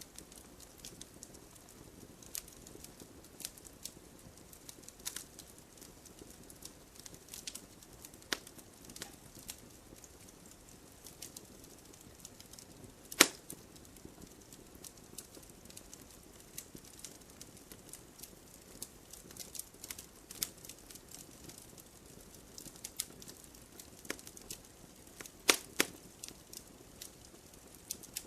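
Firewood burning in a fireplace, crackling: scattered sharp pops over a soft steady hiss, with one loud pop about 13 seconds in and several loud pops close together near the end.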